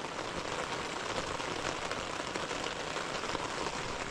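Heavy rain falling steadily on a tent, heard from inside it as a dense, even hiss of drops on the fabric.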